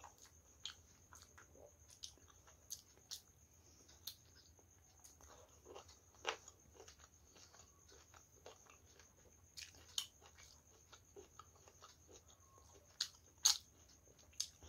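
A person eating rice and curry by hand close to the microphone: chewing with wet lip smacks and small mouth clicks, coming irregularly, with a few louder smacks near the end.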